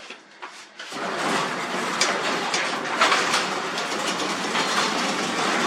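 Sectional garage door opening on its electric opener, starting about a second in: a steady rumble with rattling and clicking as the old rollers run along the metal tracks.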